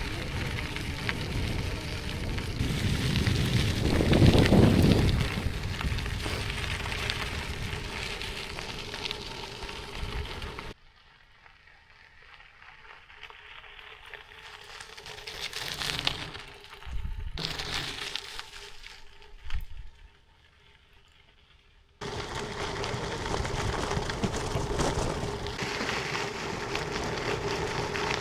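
Gravel bike's 45 mm tyres rolling and crunching over a gravel road, a steady crackle with a louder jolt about four seconds in. Midway it cuts abruptly to a much quieter stretch with a few knocks, then the rolling crunch returns just as abruptly.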